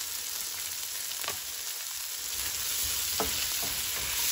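Beans, onion and peppers sizzling in hot oil in a nonstick pan while a silicone spatula stirs them, with a couple of short strokes of the spatula against the pan. The sizzle grows louder about halfway through.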